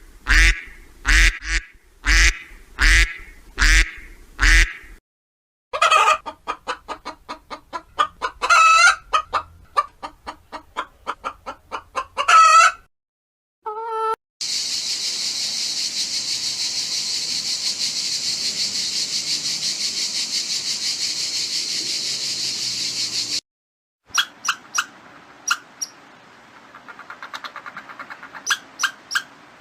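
A series of separate animal clips, mostly poultry calling. First comes a run of about ten evenly spaced duck-like calls. Then fast, chattering calls, then a long steady shrill chorus, and then scattered chirps near the end.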